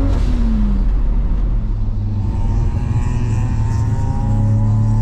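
Nissan Skyline R32 engine heard from inside the cabin while driving on track. The revs drop sharply right at the start, then climb slowly and steadily again under acceleration.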